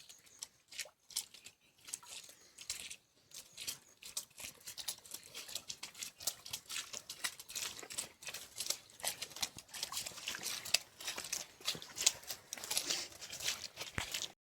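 Footsteps crunching and crackling over dry ground and leaves: irregular crisp crunches that grow denser and louder over the second half.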